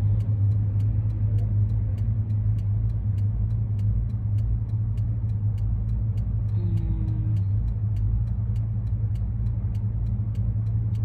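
Ford E-350 van driving, a steady low engine and road rumble with a constant low hum, heard from inside the cab.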